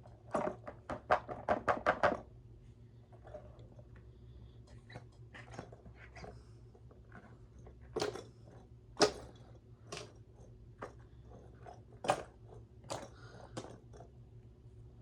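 A quick run of about ten sharp clicks in the first two seconds, then scattered single clicks and crinkles: plastic bags and toys being handled.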